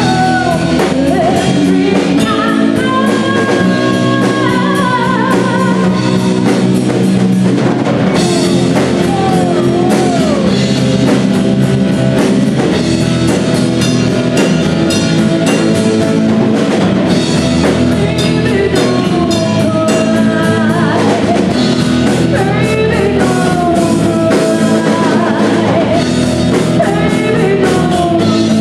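Rock band playing live: a singer's vocal over drum kit and guitar, continuous and loud.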